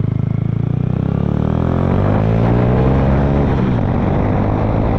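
Honda Fan's single-cylinder four-stroke motorcycle engine running under way, steady at first and then revving up, its pitch rising from about a second and a half in.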